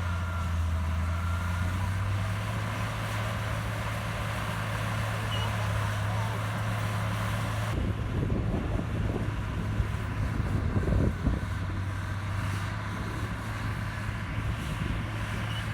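Komatsu bulldozer's diesel engine running steadily at work. About eight seconds in the sound turns rougher and more uneven, with irregular knocks over the engine tone.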